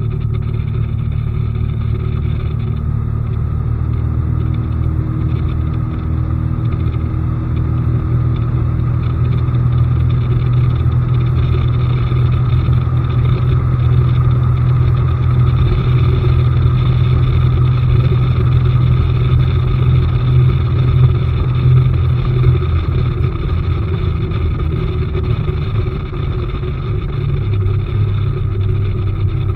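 A bass boat's newly fitted outboard motor running steadily with a constant low hum.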